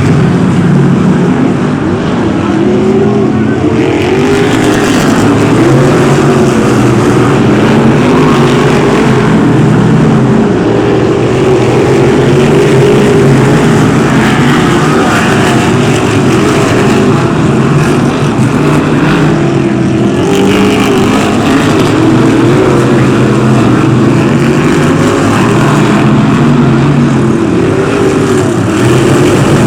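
BriSCA F1 stock cars racing: several big V8 engines run loud and overlap, their pitches rising and falling as the cars accelerate and lift off.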